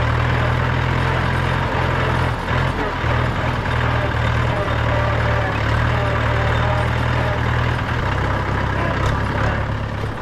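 A Mahindra 475 DI tractor's 2730 cc four-cylinder diesel engine running steadily with a deep, low note. Its note shifts slightly about eight seconds in.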